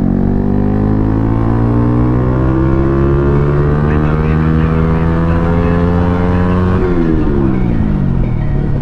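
Motorcycle with a full-system SC Project aftermarket exhaust, very loud, pulling under throttle: the engine note climbs steadily for about seven seconds, drops sharply as the throttle closes, then begins to climb again near the end.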